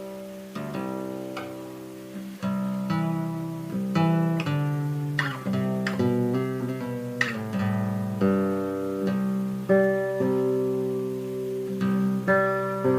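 Acoustic guitar played solo in a slow, free improvisation: single plucked notes and chords that ring out and fade between attacks.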